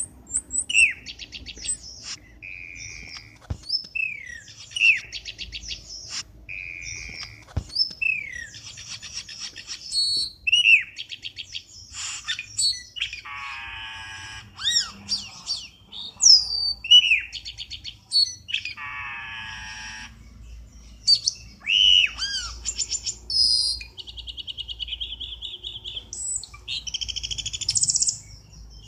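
Cucak keling bird calls used as a lure recording: a busy, varied string of sweeping chirps, fast rattling trills and short whistles, one after another with hardly a pause.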